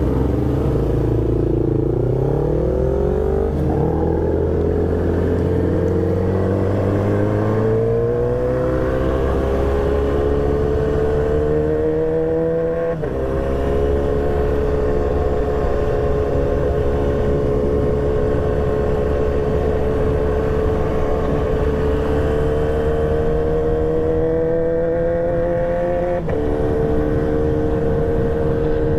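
Motorcycle engine under way, its pitch climbing slowly as it pulls, then dropping sharply at a gear change about 13 seconds in and again near the end before climbing on.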